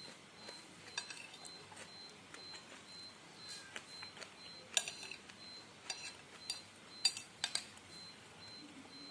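Spoon and fork clinking against a bowl while eating noodles and meatballs: scattered sharp clinks, the loudest about five and seven seconds in, over a faint high pulsing tone repeating about twice a second.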